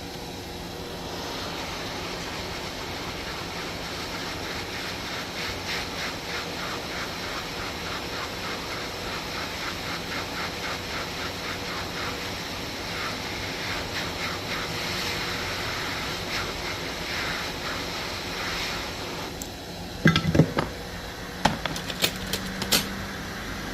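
Hot-air rework station blowing steadily, heating the board to lift the NAND chip, with a rapid even pulsing through the middle. Near the end the air drops away and a few sharp clicks of tools on the board follow.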